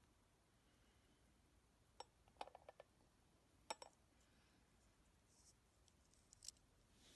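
A few faint, short clicks and taps: one about two seconds in, a quick run of four or five soon after, a pair a second later and two more near the end. They come from handling the small plastic and metal parts of an Opel Corsa C remote key.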